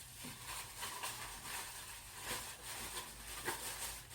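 Faint, scattered light clicks and rustles of the empty plastic cup-ramen container and its packaging being handled and moved aside.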